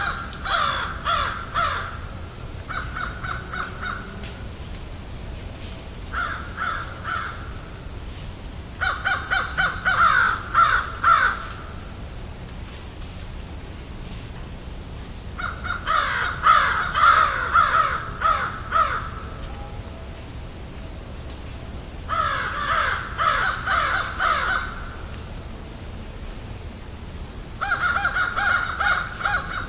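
Crows cawing in bouts of quick, repeated caws, each bout a second to three seconds long, with pauses of a few seconds between them. A steady high hiss runs underneath.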